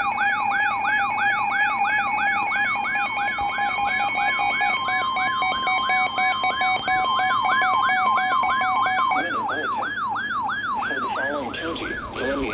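Emergency Alert System attention signal, a steady two-tone beep, stopping about nine seconds in. Over it a siren sweeps down in pitch about three times a second and keeps going after the beep ends.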